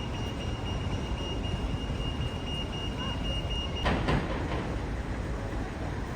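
Road traffic rumbling steadily, with a thin steady high whine that stops after about four seconds, when a sharp clatter is heard.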